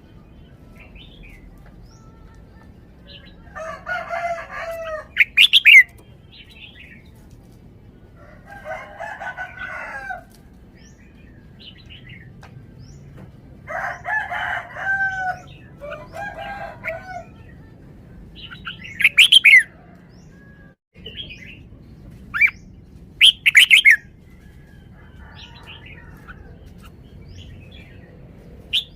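Red-whiskered bulbul singing: short warbled phrases repeated every few seconds, with several loud, sharp call notes among them.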